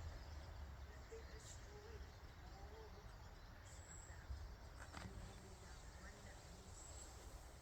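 Near silence in a winter forest: a low, steady background rumble with a few faint, short bird chirps and a soft click about five seconds in.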